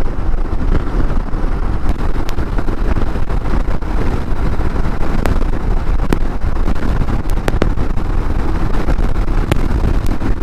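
Royal Enfield Himalayan motorcycle riding at road speed: steady wind rumble on the rider's microphone over the engine and road noise, with a few faint clicks.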